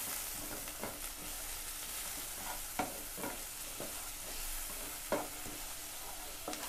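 Diced onion and kaffir lime leaves sizzling in a little olive oil in a non-stick wok, being sautéed until fragrant. A wooden spatula stirs them and scrapes and taps against the pan several times, two strokes standing out a little under 3 seconds and about 5 seconds in.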